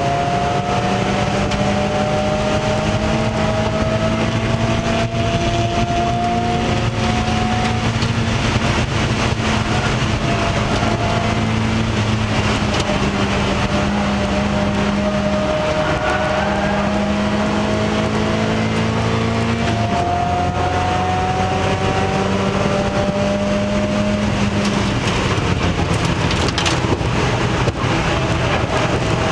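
Mazda Miata race car's four-cylinder engine heard from inside the stripped cabin at racing speed, its note climbing slowly through long pulls, with a few brief breaks, over steady wind and road noise.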